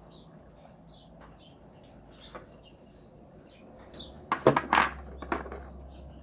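Small birds chirping over and over in the background, with a short cluster of several loud knocks about four and a half seconds in.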